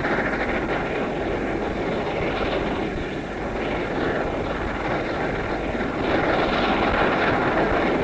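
Steady running noise of a steam-hauled train in motion, heard from on board on an old tape recording, growing a little louder about six seconds in.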